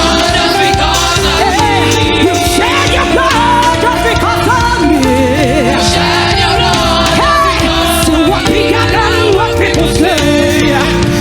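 A church choir singing a gospel song with band accompaniment, voices carrying a wavering melody over a steady bass.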